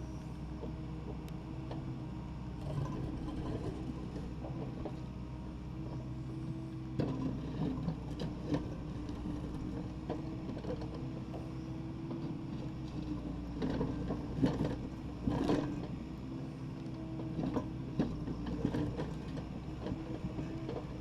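Takeuchi TB260 midi excavator's diesel engine running steadily, with clusters of knocks and scrapes from the bucket working broken concrete and rubble about seven, thirteen and seventeen seconds in.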